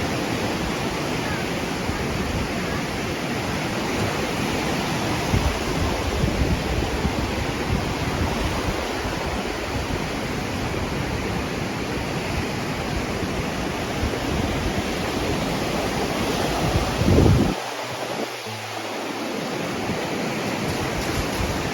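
Surf washing onto the shore at high tide as a steady rush, with wind buffeting the microphone. A strong gust peaks about 17 seconds in, after which the low rumble eases for a few seconds.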